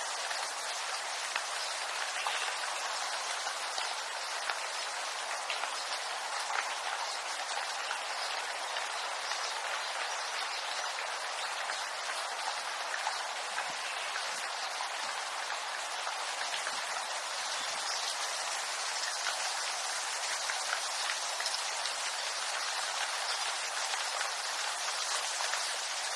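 Steady rain falling through a bamboo grove onto its leaves: an even hiss with scattered individual drop ticks.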